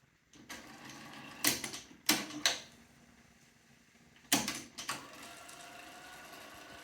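Yamaha K-200 cassette deck's mechanism being operated: a series of about six sharp mechanical clicks and clunks from its controls and transport, with faint hiss between them.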